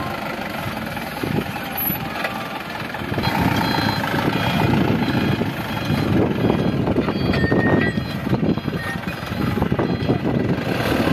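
Diesel engines of a wheel loader and dump truck running under load, growing louder about three seconds in. A few short high beeps sound through the middle.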